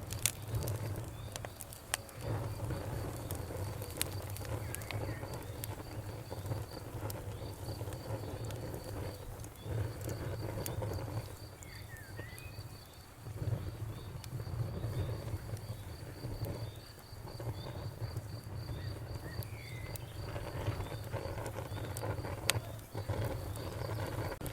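Wood fire burning, with scattered sharp crackles and pops over a low rumble of flames that swells and dips. A steady, high-pitched pulsing chirp runs behind it through most of the stretch.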